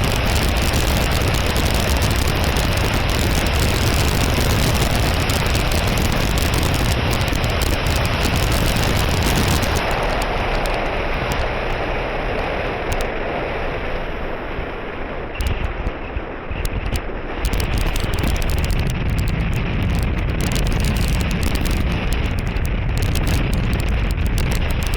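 Wind rushing and buffeting over the microphone. It eases for several seconds about halfway through, then comes back.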